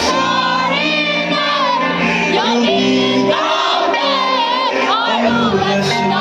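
A song performed live: a solo voice singing a wavering, ornamented melody over sustained instrumental accompaniment.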